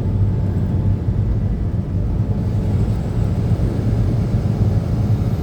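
Steady low rumble of engine and road noise inside a truck cab on the move.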